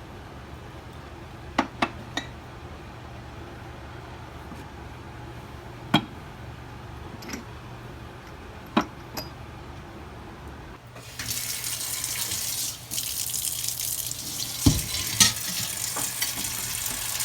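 A few sharp clinks, like ceramic pieces being set down and handled, then a tap turned on about eleven seconds in, water running steadily into a sink with a couple of knocks of crockery under the stream.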